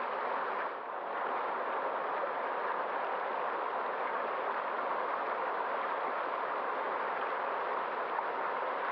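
Water of a stream flowing steadily, a constant rushing that dips briefly about a second in.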